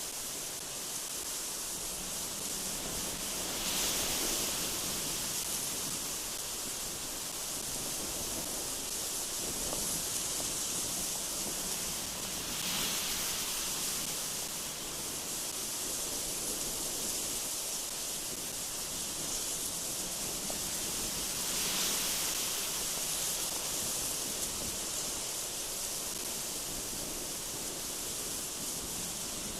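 Strong, gusty wind blowing through trees: a steady rushing hiss that swells three times in gusts.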